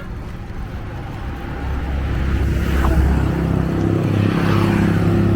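A motor vehicle's engine running close by, a steady low drone that grows louder over the first few seconds as it draws near.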